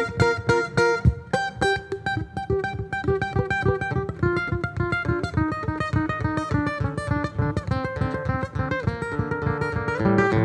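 Acoustic guitar playing an instrumental break between sung verses: quick runs of picked notes over a steady strummed rhythm.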